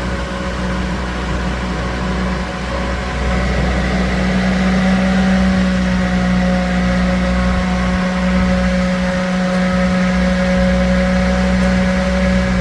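Small DC-motor table fan running steadily, a hum with a whir of air from the blades.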